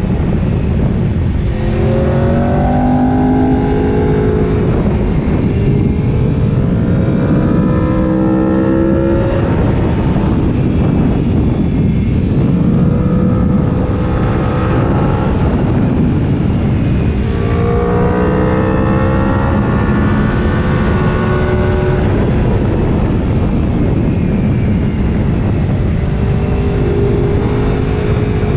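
Sport motorcycle engine pulling hard through the gears, its pitch climbing in several runs that break off at each shift, over heavy wind rush from riding at high speed.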